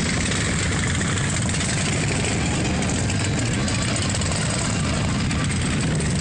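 Several heavy V-twin Harley-Davidson motorcycles running at low revs as they roll slowly past, a steady low engine sound without any single rev or blip standing out.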